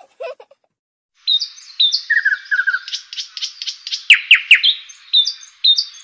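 Birds chirping and twittering in a quick run of short chirps, starting about a second in, with a few sharp downward-sweeping whistles near the middle.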